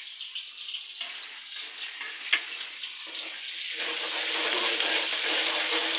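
Chopped onion and garlic sizzling in hot cooking oil while being stirred, with a knock of the spoon about two seconds in. The sizzle grows louder from about four seconds in.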